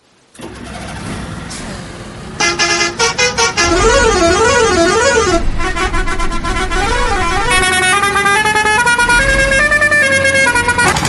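Electronic sound effects from a toy vehicle: a rumble, then beeping horn tones from about two and a half seconds in, a warbling siren-like tone, and a run of stepped notes like a short jingle.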